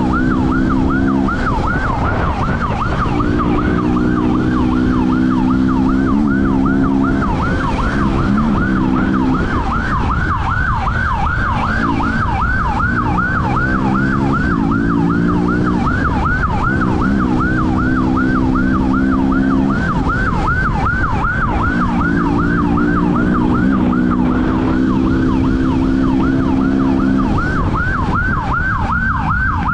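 Police siren on a fast yelp, about four rising-and-falling sweeps a second, sounding throughout. Under it a motorcycle engine runs at steady revs in spells of a few seconds, easing off briefly between them.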